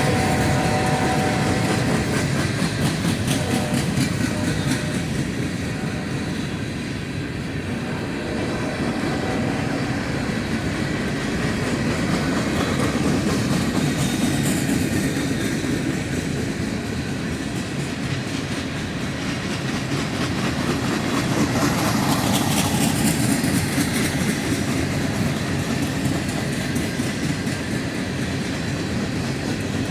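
A train rolling past at track side, its wheels clattering steadily over the rails.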